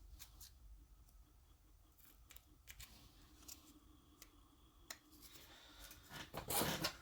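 Faint light clicks and ticks of small RC differential parts and a grease applicator being handled, with a louder scraping, rustling clatter near the end.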